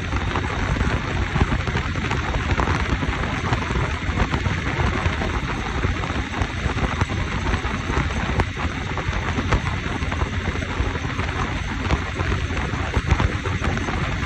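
Steady, rushing wind noise on the microphone of a motorbike on the move.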